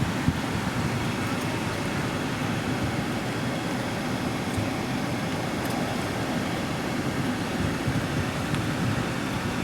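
Steady low rumble and hiss inside a car with the engine running.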